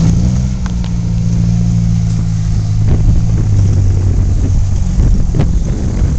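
Toyota engine in a Suzuki Samurai running steadily at idle, a low even hum, with wind buffeting the microphone. The engine's hum fades under the wind about five seconds in.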